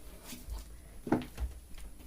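Close-up eating sounds: wet chewing and mouth smacks over watery pakhala rice, a string of short clicks with one louder smack about a second in.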